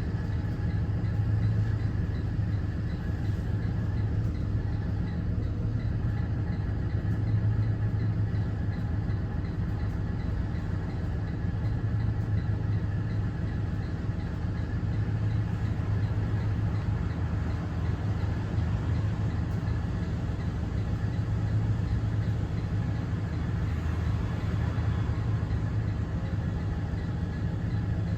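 Cummins ISB 6.7 inline-six turbodiesel of a Thomas Saf-T-Liner C2 school bus running steadily, a constant low drone.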